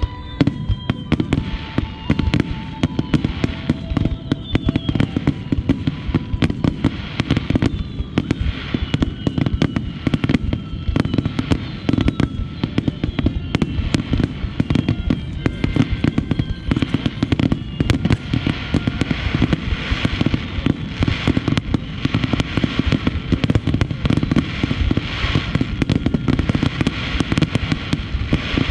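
Starmine fireworks barrage: a dense, unbroken volley of bangs and crackles many times a second, with whistling shells sounding in the first half.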